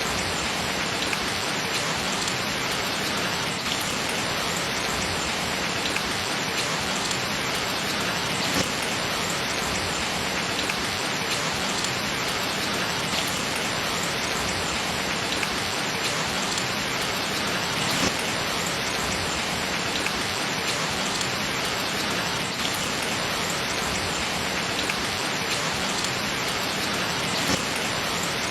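Steady rain falling on surfaces, with a few single drops now and then hitting a little louder.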